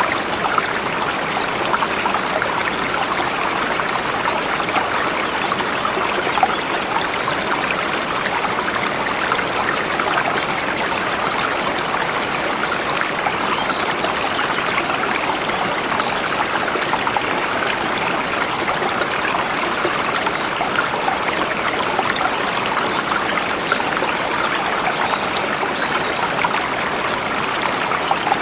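Forest river flowing steadily over rocks, a continuous splashing rush of water.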